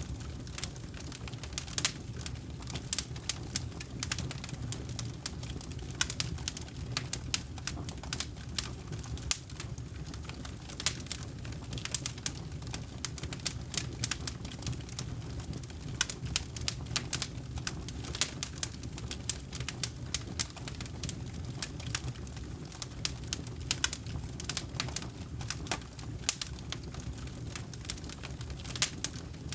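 Campfire crackling: frequent irregular sharp pops and snaps of burning wood over a steady low rumble of the flames.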